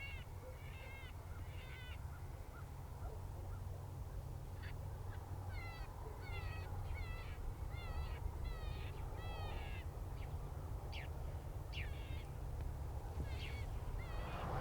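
FOXPRO electronic predator caller playing the Ms. McCottontail cottontail rabbit distress sound: runs of short, high, repeated squealing cries with a pause of a couple of seconds between runs. Steady wind rumble on the microphone underneath.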